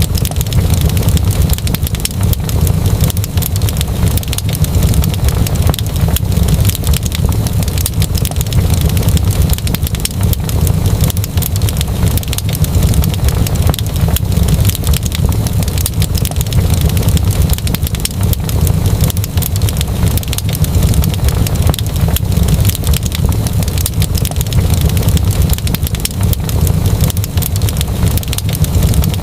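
Wood fire in a fireplace crackling: many short, irregular pops and snaps over a steady low rumble of the burning fire.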